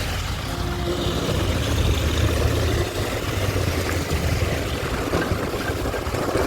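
Motorcycle on the move: steady engine and road noise with a heavy low rumble.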